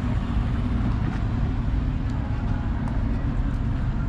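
Steady low rumble of vehicle engines running, with a few faint ticks over it.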